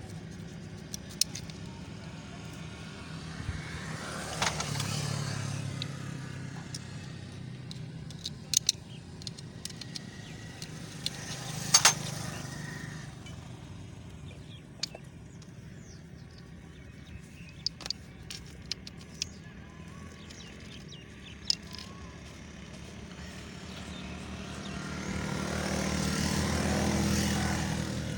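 Scattered sharp metallic clicks and clinks of hand tools and parts during work on a 70cc motorcycle's clutch, over a steady low hum. Road vehicles pass three times, each swelling and fading, the loudest near the end.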